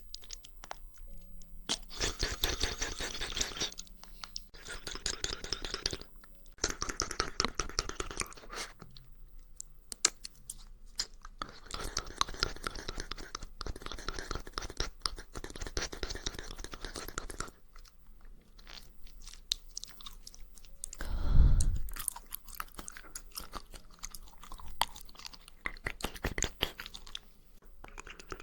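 Close-miked wet mouth sounds of jelly being chewed and squelched, in spells of a few seconds with short quiet gaps between them. One louder low thump comes about two-thirds of the way through.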